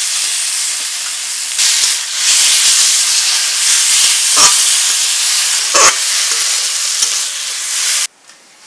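Boiled, squeezed taro leaves sizzling loudly as they hit hot oil in a wok, stirred with a metal spatula that scrapes the pan twice. The sizzle swells a second and a half in and cuts off suddenly near the end.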